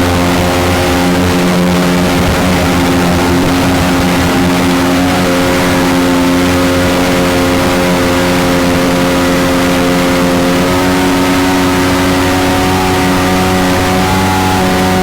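Mini jet boat's engine running steadily at speed under way, its pitch shifting slightly a couple of times, over a rush of water and wind noise.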